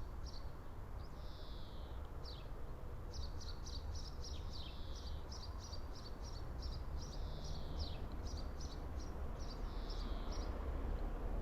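Small songbirds singing: quick runs of short high chirps mixed with longer downward-sliding notes, busiest through the middle and latter part. Under them runs a steady low rumble of background noise.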